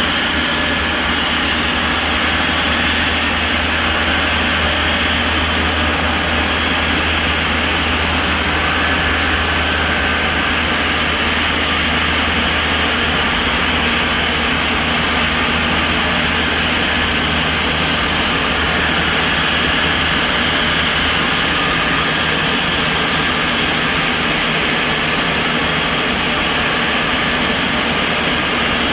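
Jet engines of a Boeing 747-200 freighter running with a constant drone and steady whining tones, unchanging in level.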